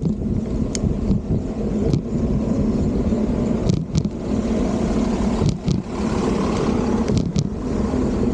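Steady low rumble of a moving electric bicycle ride, wind on the microphone and tyre noise, with a scattering of short sharp ticks and rattles.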